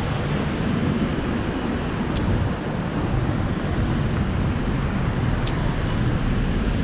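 Wind rushing over an action camera's microphone while riding a bicycle, a steady low rumble with road noise and two faint clicks.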